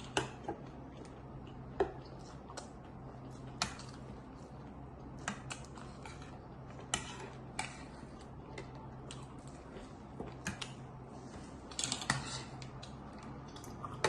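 Faint, sparse clicks and crunches of chatpate being eaten, about one light tick a second, with a short flurry about twelve seconds in.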